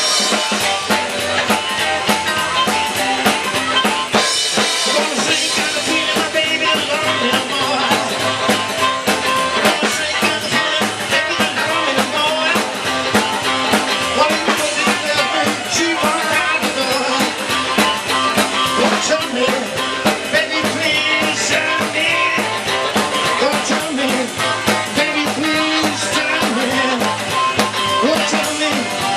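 Rock and roll band playing live: a drum kit keeps a steady beat with rimshots under guitar and bass.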